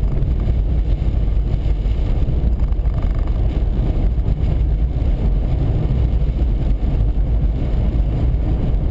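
Steady low rumble of a car driving along an icy, snow-covered highway, heard from inside the cabin: engine and tyre noise with no change in pace.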